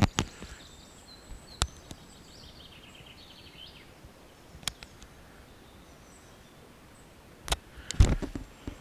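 Quiet forest background with a few scattered sharp clicks, a short run of high bird chirps about three seconds in, and footsteps and rustling on the forest floor near the end.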